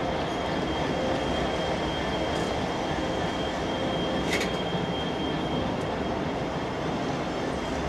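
Freight train wagons rolling past at speed: a steady, dense rumble of wheels on rail, with a thin high steady whine running through it and a sharp click about four seconds in.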